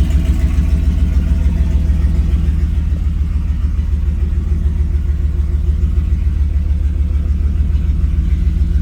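Jeep's engine running steadily at low speed while it is driven slowly, a deep, even pulsing throb.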